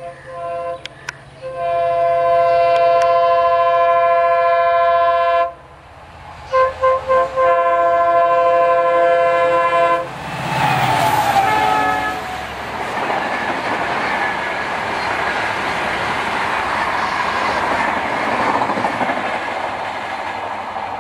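Indian Railways WDP-4 diesel locomotive's multi-tone horn sounding a long blast, three quick toots and another long blast as it runs through at speed. Then the locomotive and its coaches pass close by with a loud rushing rumble and wheel clickety-clack.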